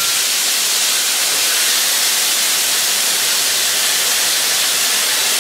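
Chicken breasts, Brussels sprouts and onions sizzling in a hot frying pan: a steady, even hiss.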